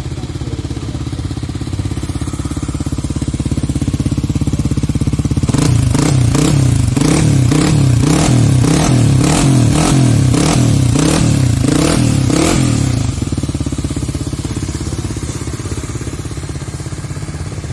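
Kawasaki KLX250 single-cylinder four-stroke engine breathing through a stainless-steel full-system aftermarket exhaust, idling, then revved in a quick series of throttle blips, about two a second for some seven seconds, before settling back to idle.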